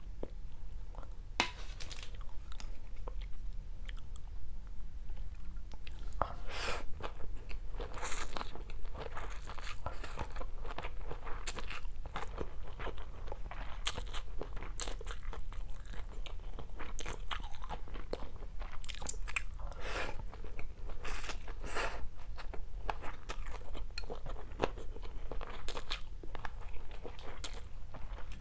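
Close-miked eating of stir-fried rice vermicelli and fried tofu: chewing and biting, heard as many irregular wet mouth clicks.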